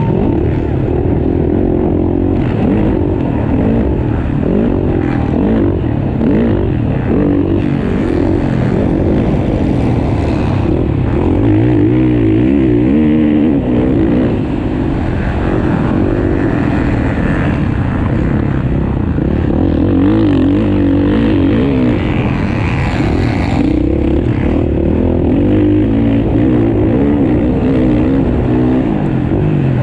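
Several motocross dirt bikes racing, their engines revving up and down with the throttle, so that the pitches rise and fall and overlap.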